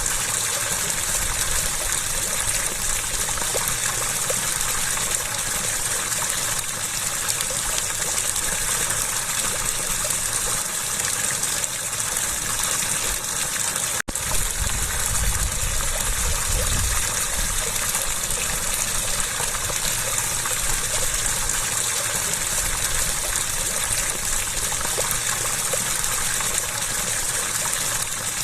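Flowing water rushing steadily, an even gushing noise. A momentary dropout breaks it about halfway through, followed by a couple of seconds of low rumble.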